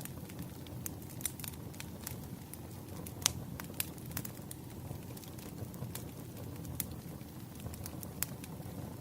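Wood fire burning: a steady low rumble with irregular sharp crackles and pops of the burning logs, the loudest pop about three seconds in.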